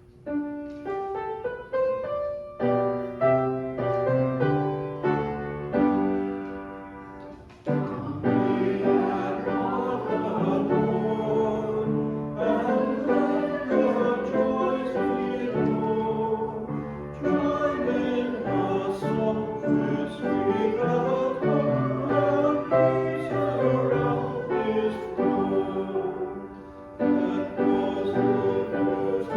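A piano plays a short introduction of separate notes. About eight seconds in, voices join, singing a hymn to the piano accompaniment.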